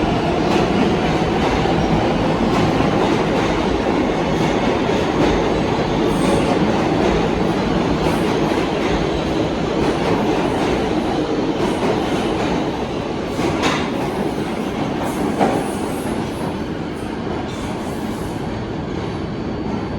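R188 subway train on the 7 line running on the rails: a steady rumble of wheels on track with clickety-clack over rail joints. A few sharp clicks come in the second half, and the level eases off a little near the end.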